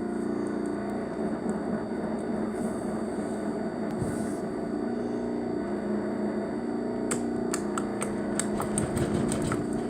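Slime being squished and poked by hand: a run of small clicks and pops starting about two-thirds of the way in, over a steady low hum.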